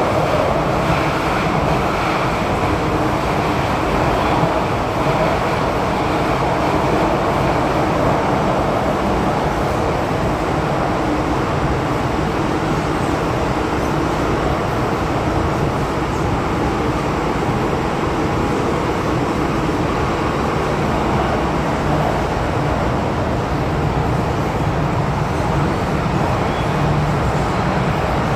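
MTR M-Train running between stations: a steady rolling noise of wheels on rail and running gear, with no change in level.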